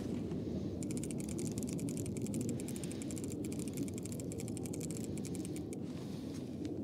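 Fishing reel ratcheting in a fast, even run of clicks for about five seconds as a hooked trout is played, over a steady low rumble of wind and water.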